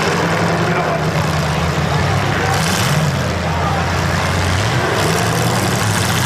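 Demolition derby car engines running and revving under a loud, steady din.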